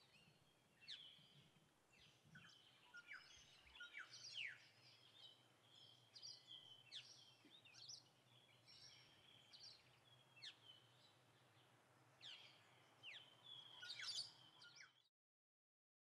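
Faint birdsong: many short chirps and quick falling whistles from several birds, coming every second or so. It cuts off suddenly into silence about a second before the end.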